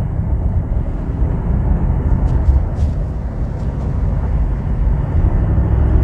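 Mercedes-AMG SL 63's twin-turbo V8 and its sport exhaust, valves opened by the exhaust button in comfort mode, running under way with a steady low rumble and not much in the way of pops and bangs.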